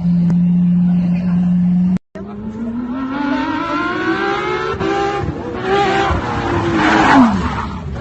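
Car engine accelerating hard, its pitch climbing steadily, dropping back at a gear change about five seconds in, then climbing again. Near the end the pitch falls away under a burst of noise. Before a brief cut-out two seconds in, there is a steady low hum.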